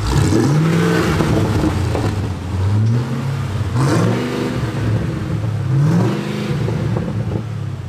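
A vehicle engine revving, its pitch climbing four times and dropping back in between.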